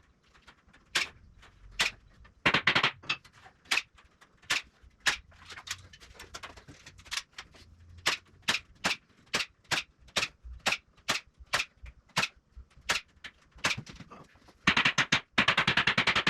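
Staple gun firing staples again and again, about two sharp snaps a second, fastening wire mesh to a wooden frame. Near the end a fast, steady machine rattle starts and keeps going.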